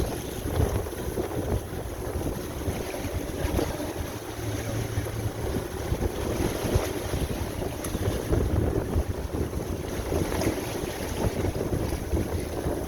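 Wind buffeting the microphone out on open water, with an uneven low rumble and the wash of water around the boat.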